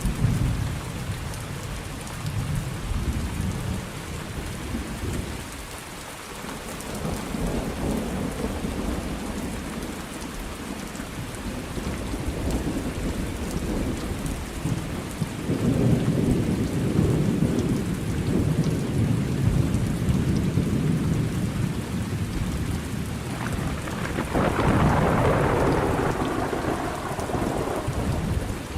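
Thunderstorm: steady rain falling, with rolling thunder rumbling in several long swells and a louder, brighter peal a little before the end.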